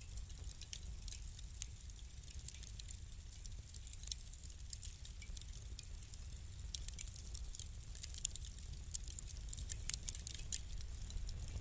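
Wood fire crackling: many small irregular pops and ticks, more of them in the second half, over a steady low rumble from the fire.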